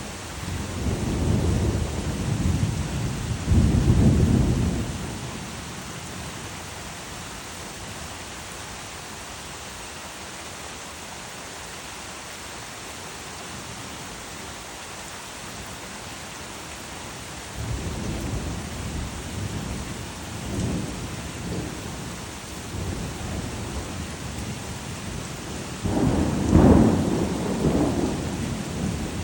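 Steady rain hissing down through a thunderstorm, with rolls of low thunder: one rumble over the first five seconds, then a longer series of rumbles starting about two-thirds of the way through, loudest near the end.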